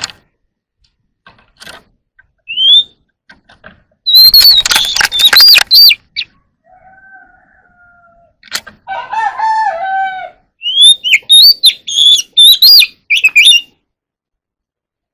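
Oriental magpie-robin singing in separate bursts of loud whistled, gliding phrases mixed with harsh scratchy notes. Lower, softer whistles come in the middle.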